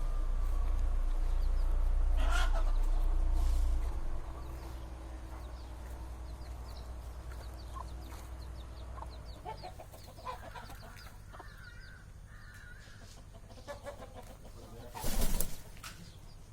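Fowl calling and clucking, with a low rumble in the first few seconds and one loud, short burst near the end.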